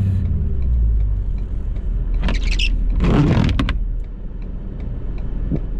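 2018 Ford F-350's 6.7 Powerstroke V8 turbodiesel running with a steady low rumble, with two short harsh rushing noises a little over two and three seconds in. It gets a little quieter about four seconds in.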